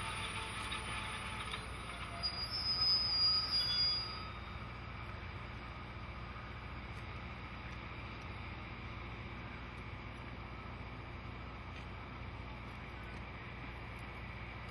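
Passenger cars of a departing steam train rolling on the rails, with a high-pitched wheel squeal for about the first four seconds, then only a steady low rumble as the train draws away.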